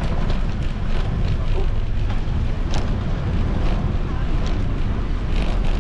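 Wind buffeting a helmet- or bike-mounted action-camera microphone while cycling, a steady low rumble, with a few faint clicks.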